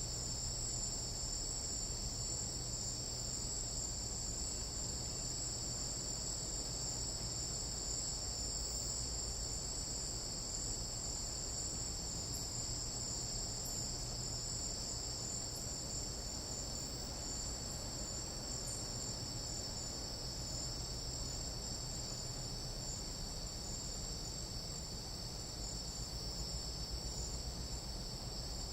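Chorus of tropical night insects, crickets and katydids, trilling in several steady high-pitched bands at once, with a low background rumble.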